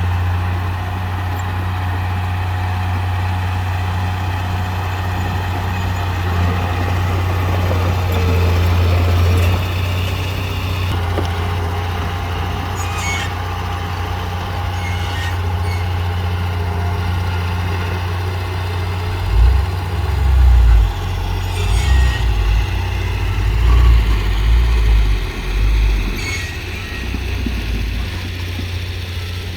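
Heavy diesel earthmoving machinery running: a steady low engine drone, then uneven low rumbling surges in the second half, with a few short clanks or hisses.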